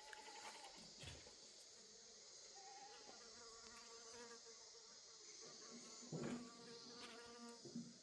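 Faint buzzing of a flying insect, a steady drone with overtones, over a steady high insect hiss. A brief knock about six seconds in.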